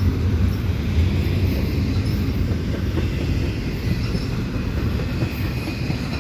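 Freight train cars rolling steadily past at close range, a continuous low rumble of wheels on rail with a faint high wheel squeal in the middle.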